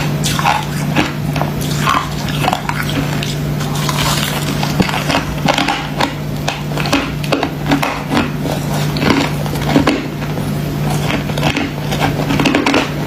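Close-up crunching of freezer frost ice being bitten and chewed: rapid, irregular crunches throughout, over a steady low hum.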